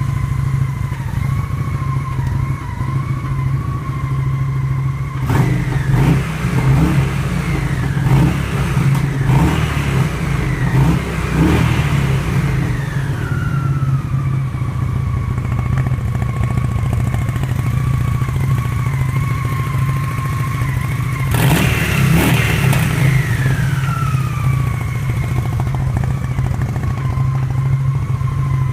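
2001 Honda Shadow ACE VT750's V-twin idling through its stock exhaust, with a steady high whine over the idle. The throttle is blipped several times in quick succession early in the middle stretch, then revved once more about two-thirds through, falling back to idle each time. The engine is running with a clogged jet.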